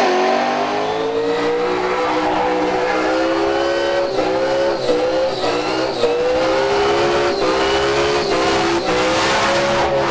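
Burnout car's engine held at high revs while its rear tyres spin and smoke on the pad, dipping briefly in revs several times before climbing back.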